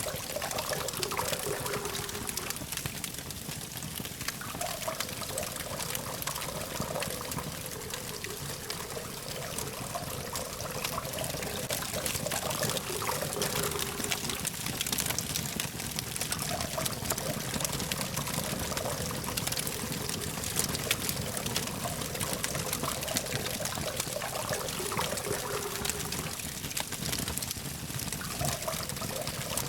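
Wood campfire burning steadily with dense small crackles and pops over a constant hiss, with a low hum of distant traffic underneath.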